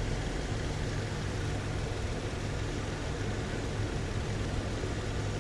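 2013 Jeep Wrangler JK's 3.6-liter V6 engine idling steadily after a water pump replacement, with the radiator open while the cooling system is bled of air ("still burping").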